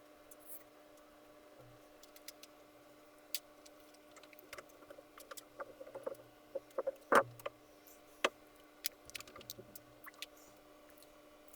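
Scattered small clicks and taps of parts being handled, busiest in the middle with one louder knock about seven seconds in, over a steady electrical hum.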